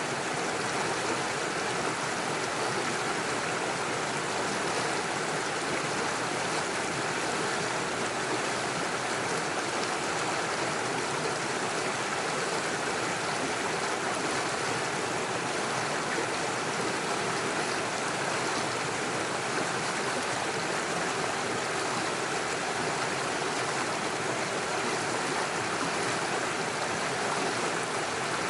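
Small stream rushing steadily over stones and small waterfalls, an even, unbroken water noise.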